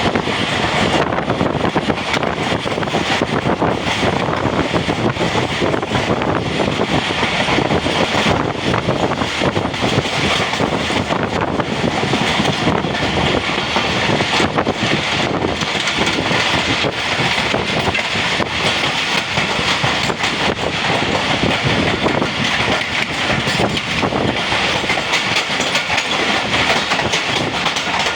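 Pakistan Railways passenger train running on the track, a steady rumble with wheels clicking rapidly over the rail joints.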